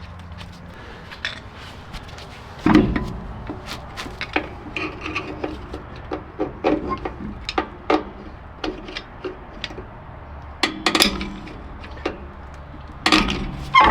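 Metal tools and brake parts clinking, tapping and scraping during rear drum brake work, with a few heavier knocks about three seconds in, near eleven seconds and near the end.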